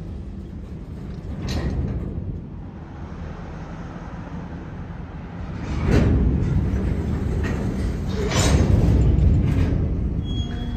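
Covered hopper cars of a freight train rolling slowly past: a steady low rumble of wheels on rail with creaks from the cars' running gear. It swells louder about six seconds in and again near nine seconds.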